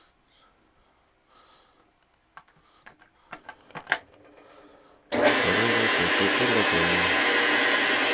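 A few light clicks and taps of metal tools being handled, then about five seconds in a metal lathe switches on suddenly and runs with a steady loud whir.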